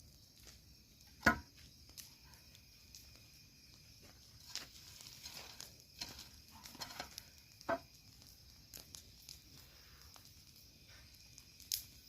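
A campfire burned down to embers giving out scattered sharp snaps and crackles, the loudest about a second in, over a faint steady high drone of night insects.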